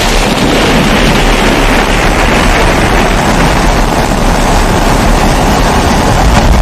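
Pressurized kerosene stove (babour) burner running with a loud, steady rushing noise and a low rumble underneath.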